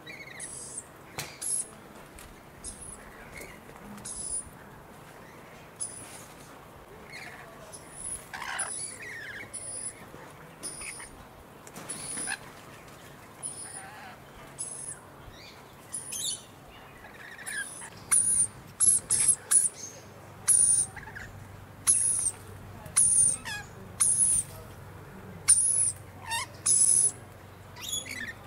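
Small birds chirping: a run of short, very high-pitched chirps with a few lower calls among them, growing louder and more frequent about two-thirds of the way in.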